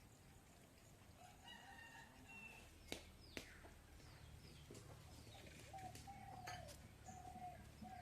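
Faint domestic chickens clucking, a run of short calls mostly in the second half, with two sharp clicks about three seconds in.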